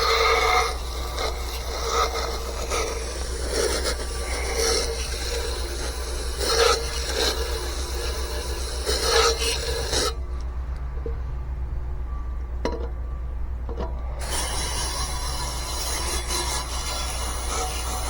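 Brush scraping and scrubbing against a metal blower wheel in repeated strokes, over a steady low hum. The scraping stops for about four seconds past the middle, then resumes.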